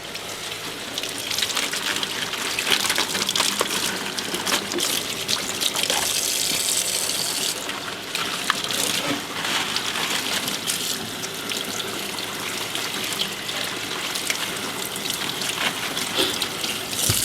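Kitchen tap running into a sink while pechay leaves are rinsed under it, the stream broken now and then by small knocks and splashes from the handling.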